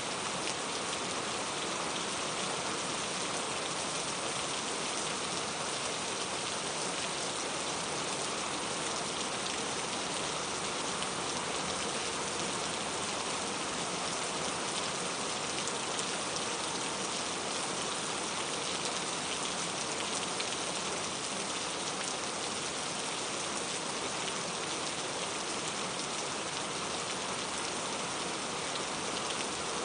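Steady rain falling, an even hiss of drops on a surface, with no change in strength.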